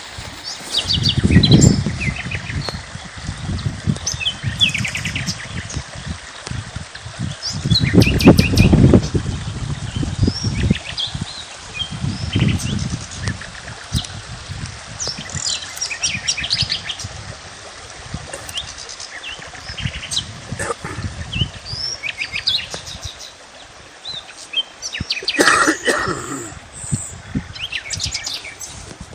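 Several small birds chirping and trilling in short calls throughout. A few loud low rumbles come near the start, at about eight seconds and at about twelve seconds.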